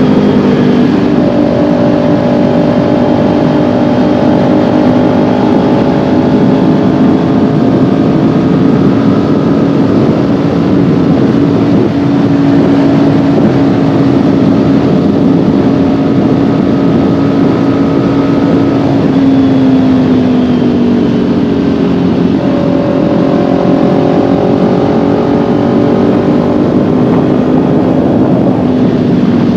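Kawasaki Ninja 400's parallel-twin engine cruising at steady revs over a rushing noise of wind and road. About two-thirds of the way through, the engine note drops and then settles at a new steady pitch.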